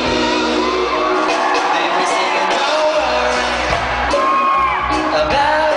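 Live pop concert recorded from the crowd: singing over a band, with whoops and shouts from the audience.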